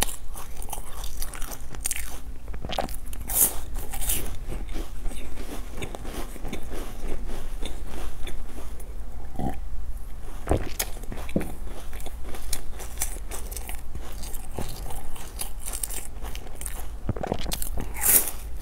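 Close-up crunchy bites and chewing of a chocolate-coated sesame bar, sharp crunches scattered irregularly throughout.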